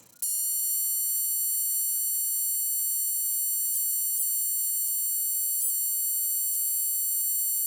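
A steady, high-pitched electronic buzzing tone starts suddenly and holds unchanged in pitch and loudness, with a few faint ticks along the way.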